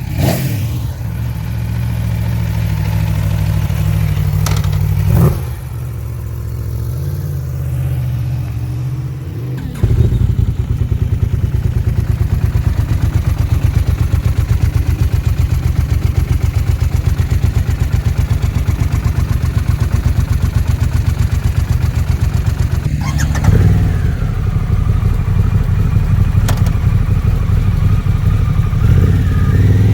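Motorcycle engines running, with a brief rise in loudness about five seconds in. About ten seconds in, a louder engine close by takes over with a fast, even pulse.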